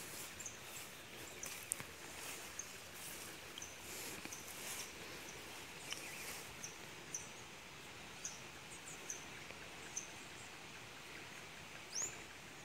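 Quiet rural outdoor ambience: a small bird gives short, high chirps about once a second over a faint steady hiss, with one longer sweeping call near the end.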